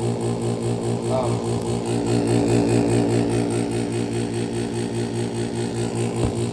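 Pelonis Elite heat pump running with a steady hum that pulses evenly several times a second.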